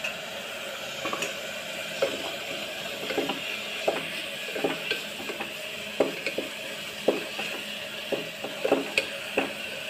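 Onions, curry leaves and ginger-garlic paste sizzling in oil in a pressure cooker, with a steady hiss throughout. A wooden spatula stirs and scrapes against the pot, giving short scraping knocks about once or twice a second.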